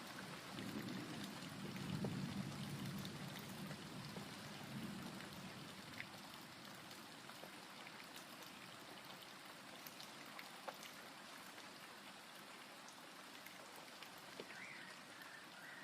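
Steady rain falling, with scattered drops ticking, and a low rumble of distant thunder that swells in the first couple of seconds and dies away by about five seconds in.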